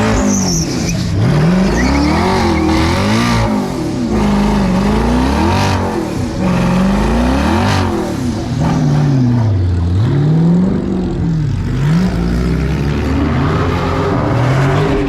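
A car engine revving hard again and again, its pitch climbing and falling every second or two.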